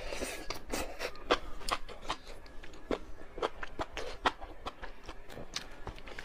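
Eating sounds: a run of small, irregular clicks and smacks.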